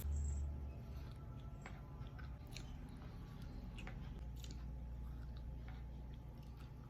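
Close-miked eating sounds: a person biting and chewing food, with scattered soft clicks and small crunches over a low steady hum.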